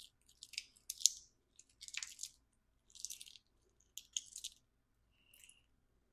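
Hand tools and small metal hardware being handled during engine work: short irregular clusters of light clicking and rattling, the loudest about a second and two seconds in.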